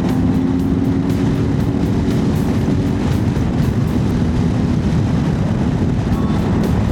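Honda CB1100 motorcycle riding at a steady speed: its engine runs under heavy, rushing wind noise on the microphone. A steady engine tone in the mix fades out about halfway through.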